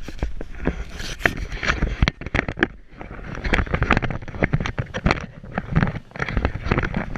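Wind buffeting the microphone, a constant low rumble broken by many irregular knocks and crackles.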